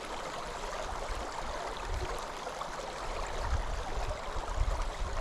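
Steady rush of flowing river water, with wind gusting on the microphone that grows stronger toward the end.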